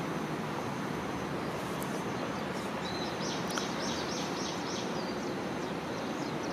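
Outdoor ambience: a steady background hiss, with a bird calling in a quick run of short, high chirps, about three a second, starting around halfway through.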